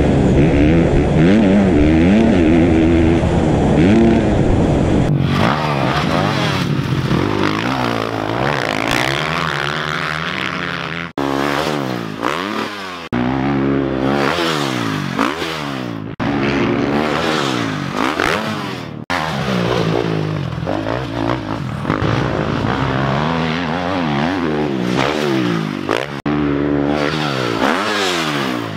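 Motocross dirt bike engines revving up and falling back over and over as they are ridden hard, in a run of clips that cut abruptly every few seconds.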